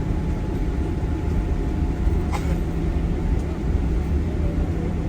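Tour bus running, heard from inside the cabin: a steady low engine and road rumble, with a brief click about two and a half seconds in.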